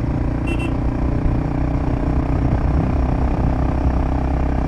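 Royal Enfield Himalayan 450's single-cylinder engine running steadily through an aftermarket Power Rage exhaust with the dB killer still fitted, cruising in fifth gear at about 65 km/h with a passenger aboard.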